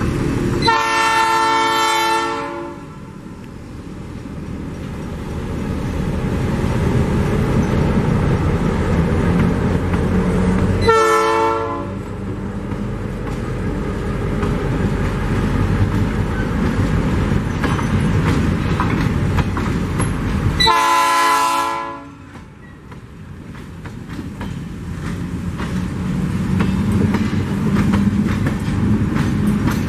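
EMD GR12W diesel locomotive's horn sounding three separate blasts: a long one about a second in, a shorter one about eleven seconds in and another about twenty-one seconds in. Under them, a freight train of thirty loaded mineral hopper cars rolls past close by with a steady rumble and the clickety-clack of wheels over the rail joints.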